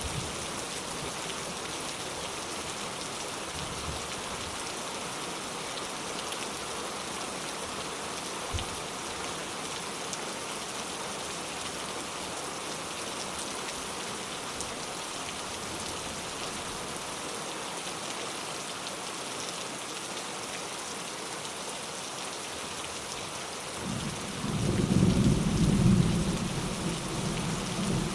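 Steady rain falling. Near the end a low rumble of thunder rolls in and becomes the loudest sound.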